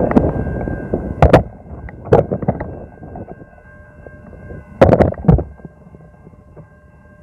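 Freight train rolling past on the grade crossing, its rumble fading away in the first couple of seconds, then several sharp clanks. Faint steady high tones run underneath.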